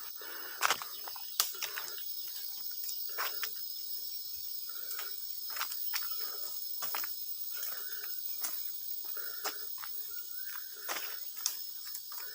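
A steady high-pitched insect chorus, with scattered sharp clicks and short repeated calls on top.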